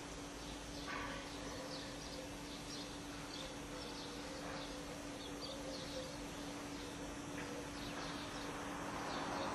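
Small birds chirping faintly and repeatedly, over a steady low hum and hiss from the camcorder.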